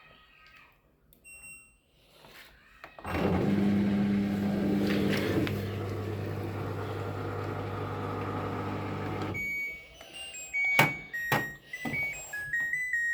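LG washing machine in test mode: a short beep, then an internal motor or pump hums steadily for about six seconds and cuts off. Sharp clicks and a quick run of electronic beeps stepping up in pitch follow near the end.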